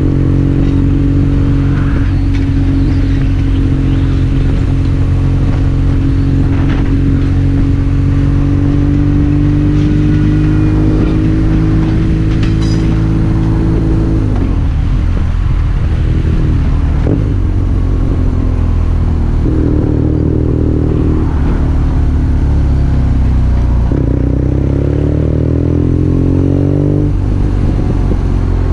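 BMW R nineT's air/oil-cooled boxer-twin engine running under way. Its note holds steady for about the first half, then changes several times as the throttle is rolled on and off.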